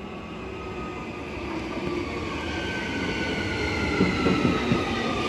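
Electric multiple-unit passenger train pulling into the platform, getting steadily louder, with a whine that falls in pitch as it comes in. A few low knocks come near the end.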